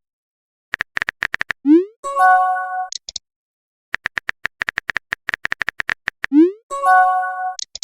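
Phone keyboard tap clicks in quick runs, each run followed by a short rising swoosh and a held chord-like message chime, the typical sound effects of a text message being typed and sent. This happens twice.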